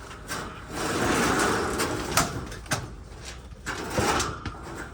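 A heavy heat pump pool heater cabinet being heaved and slid by hand: a long scrape in the first half, then a few knocks as it shifts.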